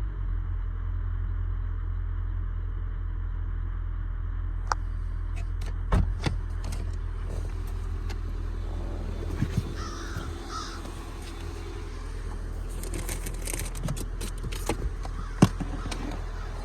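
A steady low hum with scattered sharp clicks and taps, and a bird calling a few times near the middle.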